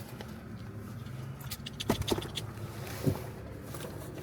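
Car engine idling with a steady low hum, with a few light clicks and knocks of things being handled about two and three seconds in.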